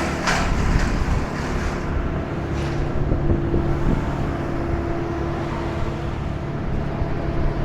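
A motor vehicle's engine running steadily: a continuous low rumble with a faint held hum on top.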